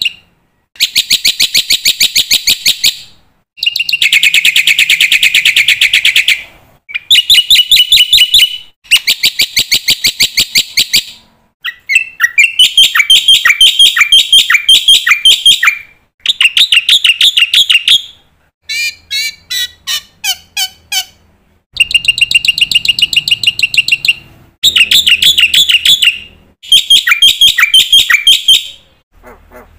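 Black-winged starling (jalak putih) singing hard, its song full of learned phrases from other birds. About ten loud phrases of one to four seconds each, every one a fast run of high, rapidly repeated notes, with short pauses between.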